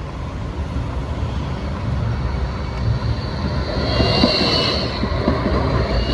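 Tram rolling in with a steady low rumble; about four seconds in, its wheels start squealing high on the rails, with a few knocks as it passes over the track.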